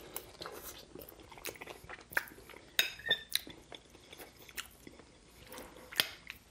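Chewing a mouthful of mac and cheese, with irregular wet mouth clicks. A metal spoon scrapes and clinks against a glass baking dish while scooping, with a ringing clink about three seconds in and another sharp knock near the end.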